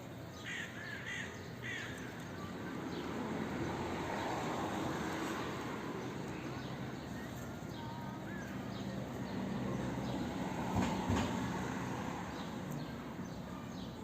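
Three short, quick animal calls about half a second in, crow-like caws or mews. Under them runs a steady background rumble that swells twice, around four to six seconds in and again near eleven seconds.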